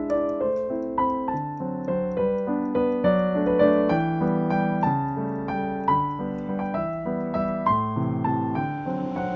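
Background music: piano or electric keyboard playing a melody of short, fading notes.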